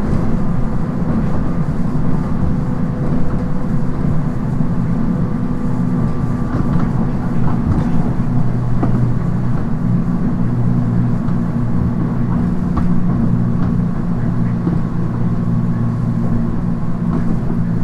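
On-board running sound of a JR East 719 series electric train car travelling at a steady speed: a continuous low rumble of wheels on rail, with a faint steady whine from the traction drive and occasional faint clicks.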